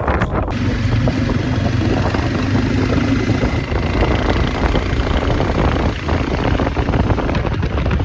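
Motorcycle engine running steadily on the road, a low rumble.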